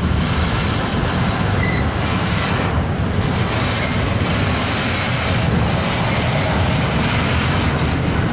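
Double-stack intermodal container train rolling past: steady rumble and rattle of the well cars' wheels on the rails, with a brief faint high tone about two seconds in.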